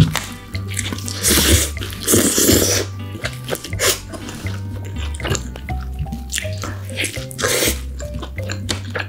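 Close-miked eating of a hamburger: wet chewing and smacking with a few louder bites, over background music with a bass line.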